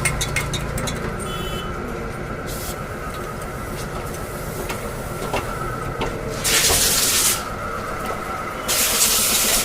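Compressed air hissing in two loud bursts from a pneumatic truck jack, one about two-thirds of the way in and another near the end, over a steady idling engine. A few quick clicks come at the very start.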